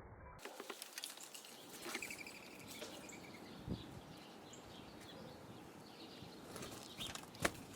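Faint outdoor background with a few short bird chirps about two seconds in, scattered light taps and clicks, and one sharper click near the end.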